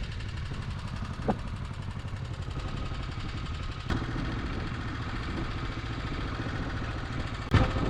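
A small go-kart engine runs steadily with a low rumble. There is a sharp click about four seconds in and a louder knock near the end.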